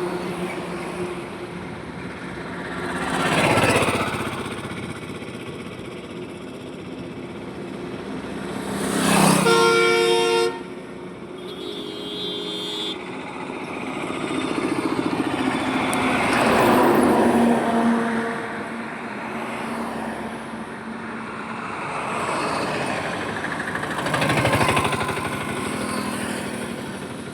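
Highway traffic with vehicles passing one after another, each swelling and fading. A vehicle horn sounds loudly about ten seconds in and cuts off suddenly, followed by a fainter, higher-pitched horn for about two seconds.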